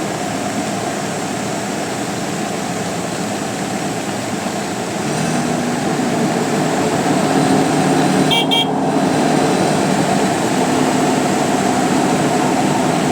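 A steady rushing noise, joined about five seconds in by the low hum of a vehicle engine running, with a short high horn toot about eight seconds in.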